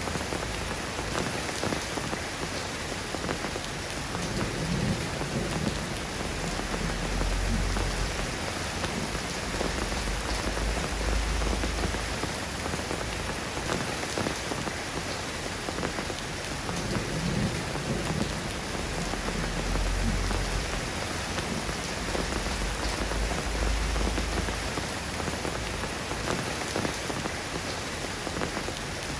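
Steady rain falling, an even hiss of drops, with a low rumble swelling and fading every several seconds.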